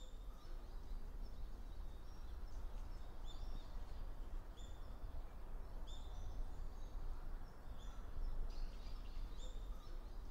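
Birds chirping: many short, high calls scattered throughout, over a steady low background rumble.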